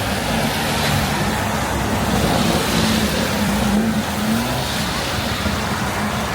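City street traffic: a motor vehicle's engine humming close by over a steady rush of street noise, its pitch wavering and rising a little about four seconds in.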